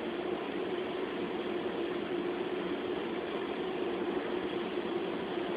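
Steady mechanical running noise of an automatic car wash heard from inside the car, a constant hum at an even level, with the car's engine idling.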